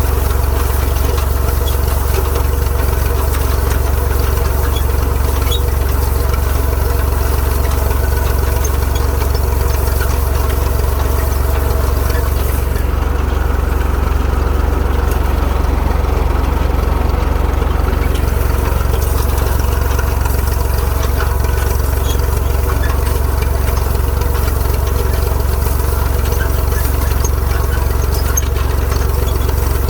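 IMT 539 tractor's three-cylinder diesel engine running steadily under load while pulling a rotary rake. The sound goes duller for a few seconds around the middle.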